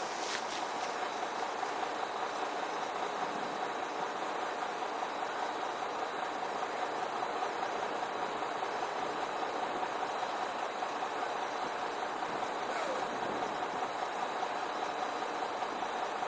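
Steady outdoor noise with a faint constant high whine, with no distinct events.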